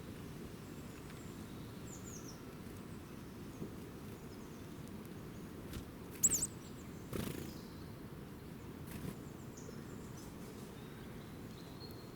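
Outdoor ambience with a steady low rumble and scattered faint, high bird chirps; one louder short chirp a little past halfway, followed by a brief rustle.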